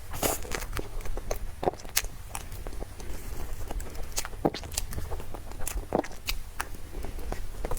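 Close-miked eating sounds from someone eating cake and persimmon: irregular soft clicks and smacks of chewing and biting, a few a second, over a low steady rumble.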